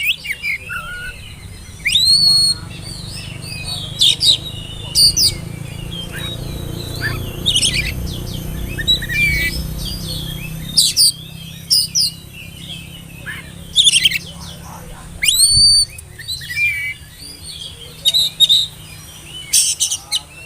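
Oriental magpie-robin (kacer) singing: a varied run of short, sharp whistled notes, with a couple of long rising whistles, about 2 s in and again about 15 s in.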